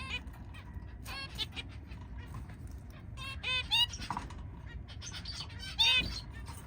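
Zebra finches calling in a cage: several short calls in small clusters, the loudest about six seconds in, with light ticking and scratching as the birds move about.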